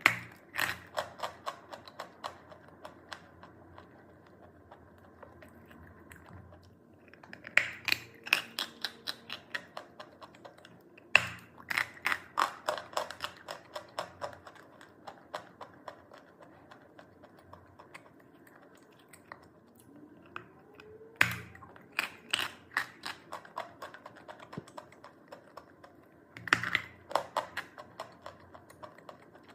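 Hard chalk being bitten and chewed close to the microphone: five bouts of dry crunching, each opening with a sharp snap followed by a run of smaller crunches that fade out.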